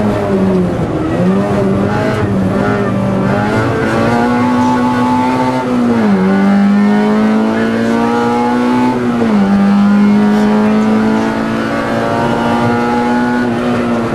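Rally car engine heard from inside the cabin under hard acceleration: the revs rise and fall quickly through the first few seconds, then climb steadily and drop sharply twice in the second half as the driver shifts up, climbing again after each shift.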